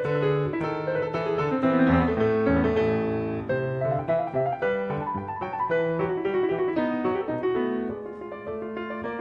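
Background piano music: a melody of struck notes over held chords, slightly quieter near the end.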